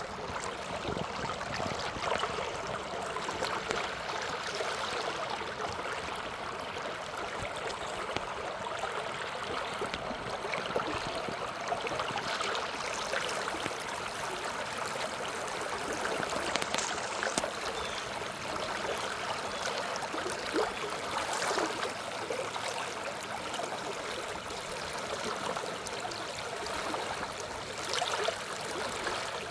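Water flowing steadily, a continuous rushing wash with small brief splashes scattered through it.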